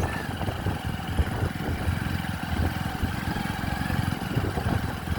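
Motorcycle engine running steadily, its low even firing pulses throughout.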